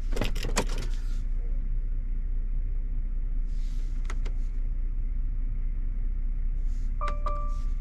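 Volvo FH540's inline-six diesel idling, heard from inside the cab as a steady low rumble. A few sharp clicks come in the first second, and a steady electronic beep sounds near the end.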